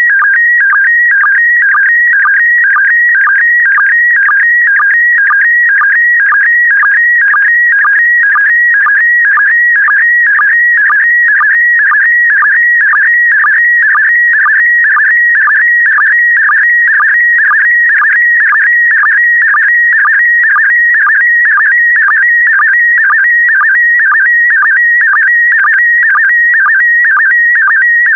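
Slow-scan TV image signal in PD120 mode: a steady electronic warbling tone around 1.5–2 kHz, broken by a short sync pulse about twice a second as each pair of image lines is sent.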